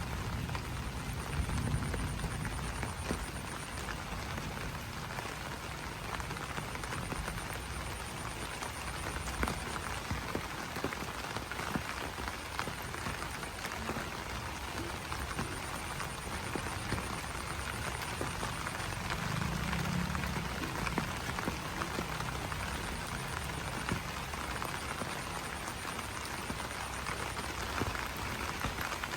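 Rain falling on banana leaves: a steady patter of drops on the broad leaves, with frogs croaking and a faint pulsing high chirr that comes and goes.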